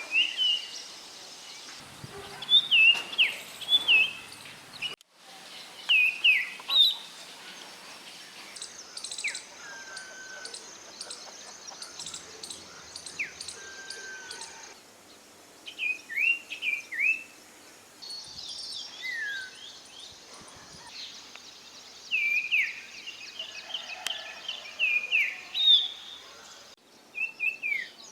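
Common iora calling: a series of short, clear whistled notes that slide sharply up or down, in quick groups of two to four, the pattern varying from group to group. Faint high-pitched ticking runs underneath.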